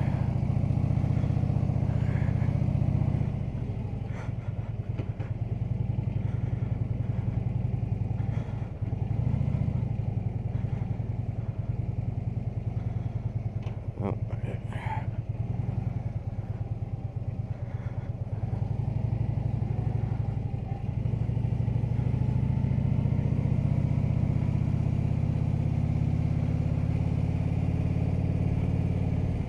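Harley-Davidson touring motorcycle's V-twin engine running under way, its note easing off and picking up again several times as it is ridden.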